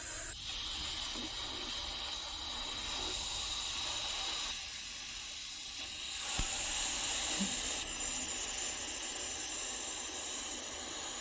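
Floodwater rushing past with a strong current: a steady hiss that shifts a little in level a few times.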